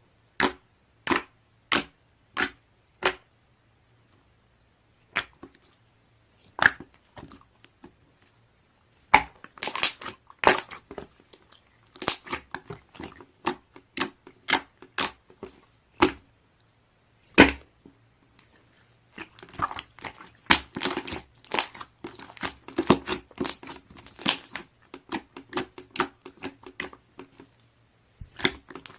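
Slime being pressed and squished by hand, making sharp popping clicks that come singly at first and then in dense crackling runs in the second half.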